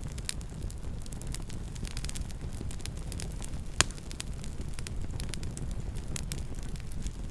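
Campfire crackling: scattered sharp pops and snaps over a steady low rumble, with one louder pop a little past the middle.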